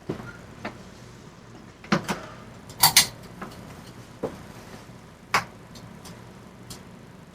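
Hampton Bay Cameron II ceiling fan running with a steady low hum, over which come about eight sharp, irregularly spaced clicks and knocks, the loudest a close pair about three seconds in.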